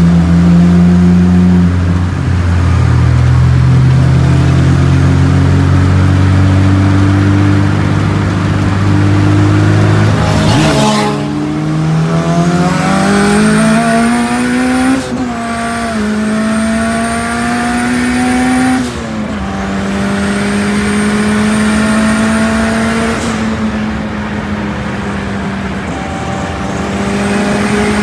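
Car engine heard from inside the cabin, running at a steady cruising drone at first. Then it pulls hard under acceleration, its pitch climbing through the gears with two drops at upshifts, and it settles to a steady higher note, with a faint high whine during the pull.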